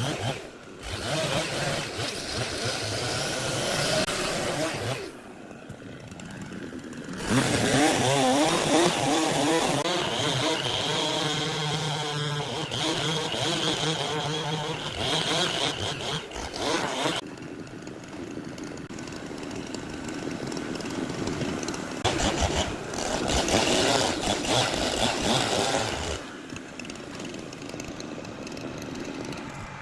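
Large sawmill saw running and cutting through timber, the machine's pitch wavering as the blade takes the load, with the sound changing abruptly several times.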